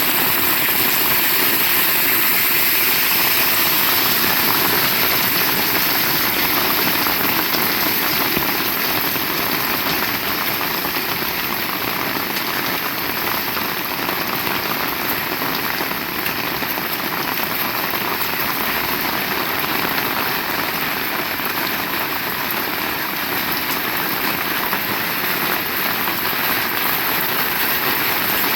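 Heavy rain pouring steadily, a dense even wash of drops on hard surfaces.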